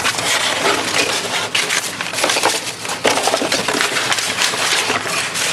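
Rummaging through a pile of junk and lumber: wood and debris clattering and crunching in a dense run of small knocks.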